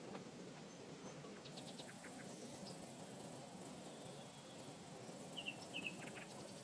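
Faint wild ambience: a thin, steady high insect drone starts about a second and a half in over a low, even rush, with a few quick bird chirps near the end.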